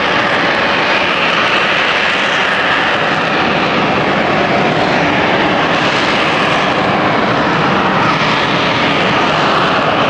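Airplane engines running loud and steady, a dense noise with slowly drifting pitch bands, typical of an aircraft on its takeoff run or passing close.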